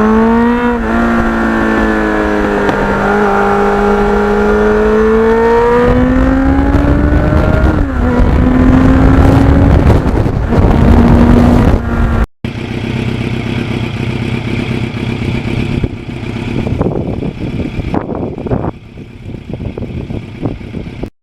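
Kawasaki Ninja motorcycle engine under way. Its pitch climbs slowly as it pulls, then drops sharply at a gear change about eight seconds in, with wind rush over it. After a break about twelve seconds in, a steadier, quieter riding sound follows.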